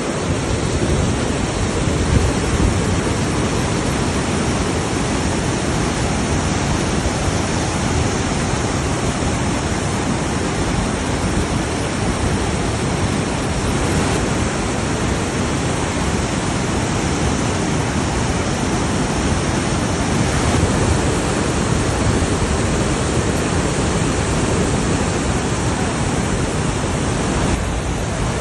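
Water gushing through a reservoir's opened spillway gates, a loud steady rush of falling water.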